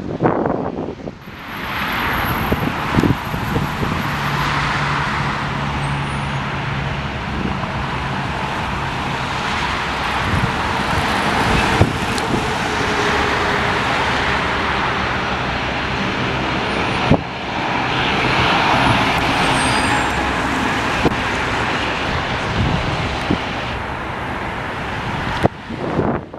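Jet airliner engine noise: a loud, steady rushing sound with a faint high whine over it, broken by a sudden brief drop about seventeen seconds in.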